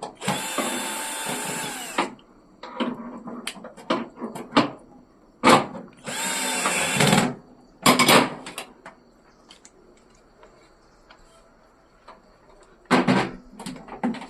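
Power drill run in two bursts, the first about two seconds long and the second just over a second, its motor pitch dropping as it winds down each time. Clicks and knocks of handling come in between, with a short loud clatter near the end.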